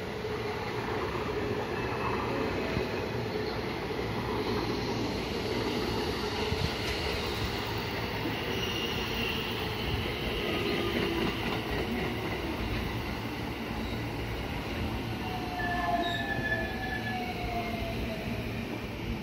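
JR West electric commuter train running alongside the platform, with a steady rumble of wheels on rail and thin squealing and whining tones. Near the end the whines fall in pitch as the train slows.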